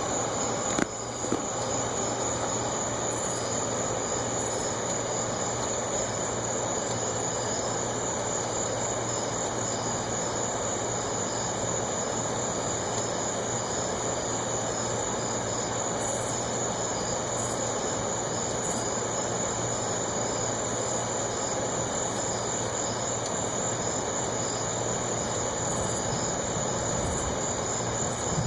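A steady, high-pitched chorus of crickets or other night insects trilling continuously over a constant low background noise, with no thunderclaps.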